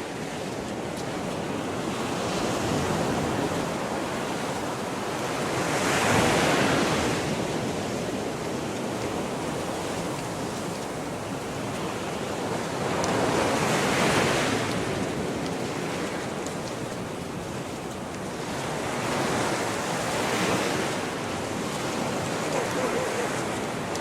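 Small Gulf of Mexico waves breaking and washing up the beach, swelling about every six to eight seconds, with some wind on the microphone.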